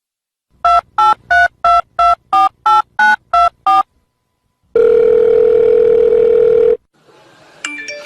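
Telephone keypad dialing: about ten short two-tone beeps in quick, even succession, then a steady tone for about two seconds as the call connects.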